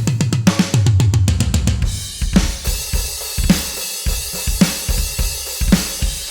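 Jobeky electronic drum kit with Arborea Mute cymbals being played: a fast fill of rapid strokes for about two seconds, then a steady beat of bass drum, snare and cymbals.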